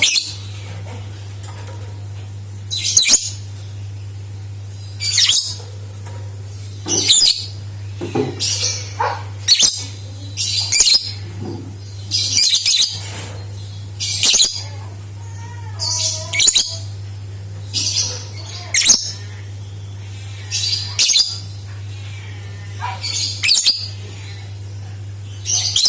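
Lovebird calling in short, shrill chirping bursts, about one every second or two, over a steady low hum.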